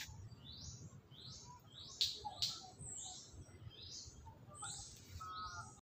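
Small birds chirping: a steady run of short, high chirps, each sliding downward in pitch, about two a second.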